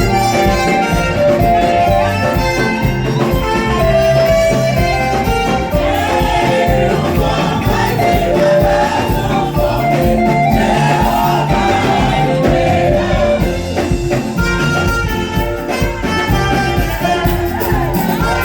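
Band playing upbeat gospel praise music, with singing and held melody notes over a steady beat.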